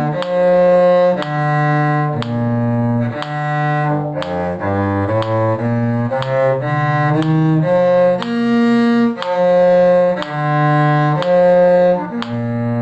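Bowed string instruments playing a two-part piece, with the bottom part pitched low in the cello range. The notes are mostly held for about a second each, with a run of shorter, quicker notes in the middle.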